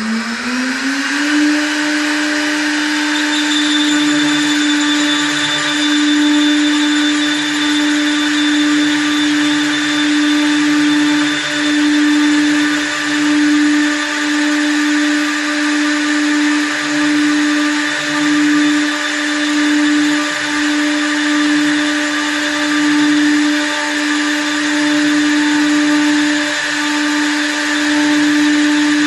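Small-diameter CNC wood lathe running: its motor winds up to speed in the first second or so, then holds a steady high hum, the level swelling and easing every second or two.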